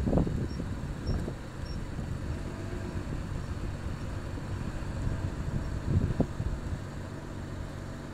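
BMW E90 335i running, a steady low rumble with a few brief louder bursts.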